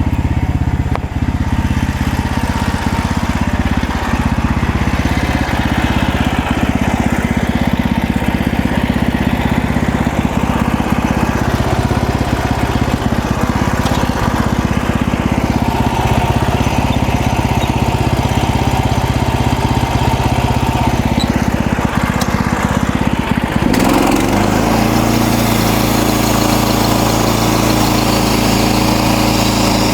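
The engine of a MechMaxx portable band sawmill runs steadily while the mill saws through a cedar log. About three-quarters of the way through, the engine note changes abruptly to a slightly higher, steadier pitch.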